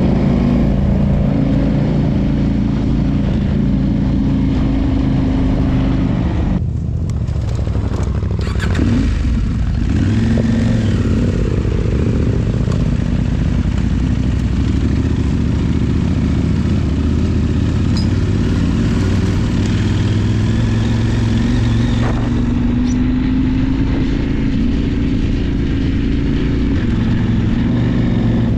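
Parallel-twin adventure motorcycle engine running while riding, its pitch rising and falling with the throttle. There is a brief drop about seven seconds in.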